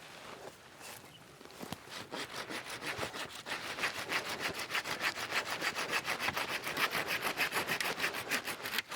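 Handsaw cutting through wood in quick, even back-and-forth strokes that build up about two seconds in and stop abruptly near the end.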